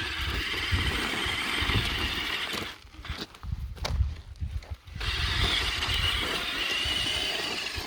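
Small electric motor of a KTM Stacyc 12V kids' electric balance bike whining as it runs at low power, dropping away for about two seconds in the middle and picking up again, with a low rumble underneath.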